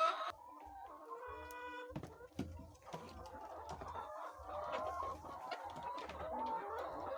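A flock of laying hens clucking and calling, with one longer, drawn-out call about a second in.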